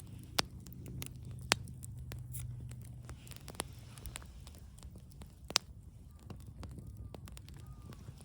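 Wood campfire crackling: a few sharp, irregular pops over a low, steady rumble.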